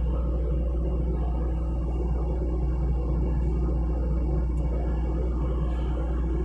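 Hitachi mini excavator's diesel engine running steadily, a low even drone that holds the same pitch throughout.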